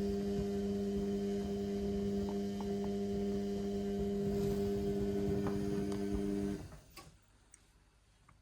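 Indesit washing machine's drain pump humming steadily, then cutting off abruptly about six and a half seconds in. The machine is on a synthetics cycle overloaded with suds.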